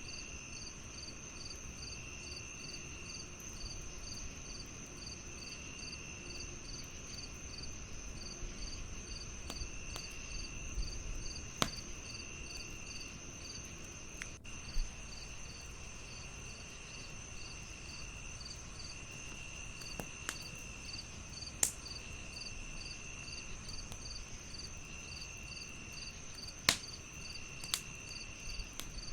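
Crickets chirping in a layered chorus: one steady high trill, a quick pulsed chirp about two to three times a second, and a lower chirp in bursts of about a second every few seconds. A wood fire crackles with a handful of sharp, separate pops scattered through it.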